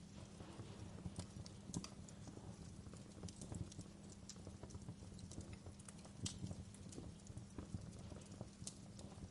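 Wood fire burning in a fireplace: a low steady rumble of flames with irregular crackles and sharp pops of burning firewood, several each second.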